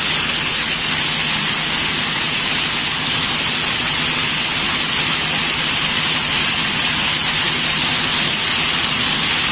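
Heavy rain pouring down, with rainwater cascading off a steel bulkhead and splashing onto a ship's deck in a steady rushing hiss. A low steady hum runs underneath.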